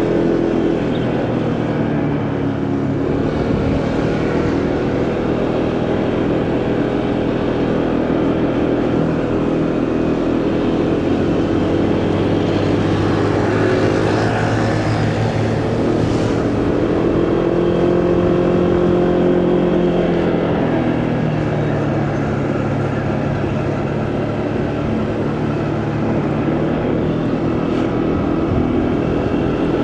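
Motorcycle engine running under way, its pitch rising and falling with changes in speed, with wind and road noise.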